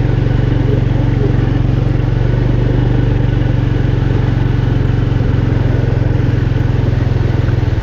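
Small motorcycle engine running steadily at an even speed, loud and close to the microphone.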